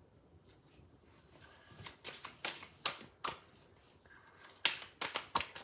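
Lord of the Rings Oracle cards being shuffled and handled by hand: two runs of short, crisp flicks of card stock, the second run the loudest.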